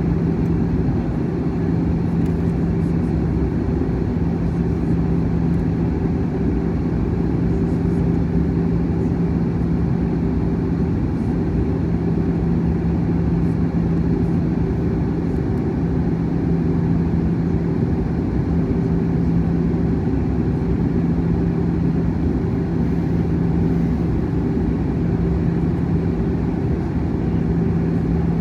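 Steady drone of an Airbus A321 in flight heard from inside the passenger cabin: engine and airflow noise with a constant low hum.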